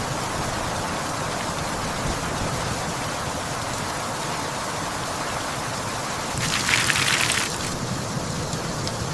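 Steady rain falling, a rainstorm sound effect. About six and a half seconds in, a brighter, louder rush of hiss lasts about a second.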